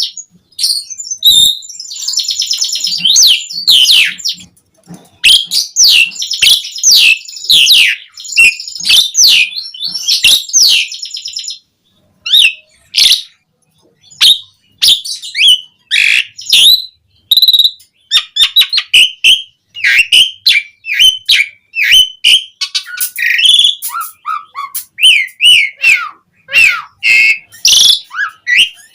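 Pied starling (jalak suren) singing a loud, busy song of rapid chirps, whistles and rising and falling notes, with a few short pauses around the middle.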